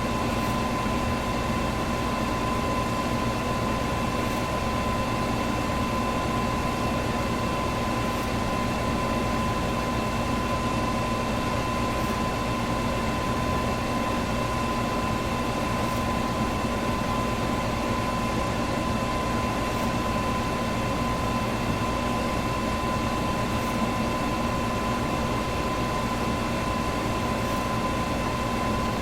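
Electric fan running steadily: an even rush of air with a constant hum underneath and a thin steady whine. A faint tick recurs about every four seconds.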